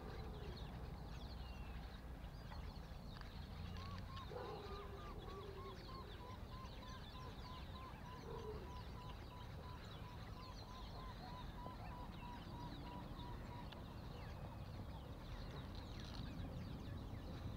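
Birds calling at the lakeside: a long, even series of short notes, about three a second and falling slightly in pitch, starts about four seconds in and runs for some ten seconds, with a few lower calls mixed in. Faint high chirps and a low outdoor rumble sit underneath.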